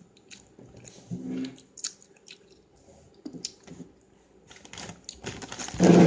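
Chewing gum being chewed with the mouth open: scattered wet clicks and squelches. A short hum comes about a second in, and a loud voice starts at the very end.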